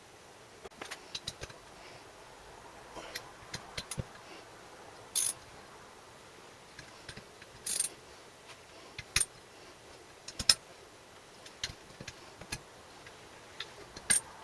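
Scattered light metallic clicks and clinks of small parts and hand tools being handled at the bench, with two louder brief noises about five and eight seconds in.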